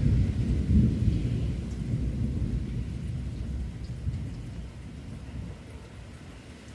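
A thunderclap: a deep rumble that breaks in suddenly, is loudest about a second in and fades away over the next few seconds, over heavy rain.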